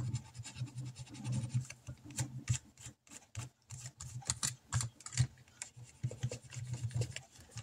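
Paper money and envelopes being handled close up: irregular rustling with small scrapes and clicks.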